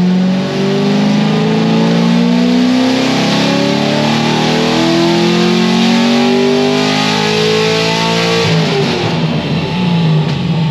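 A straight-piped LS7 7.0 L V8 in a C6 Corvette Z06 at wide-open throttle on a chassis dyno. The exhaust is a titanium catback with no mufflers and is very loud. Engine pitch climbs steadily through the pull; about eight and a half seconds in the throttle closes and the engine drops into a crackling coast-down.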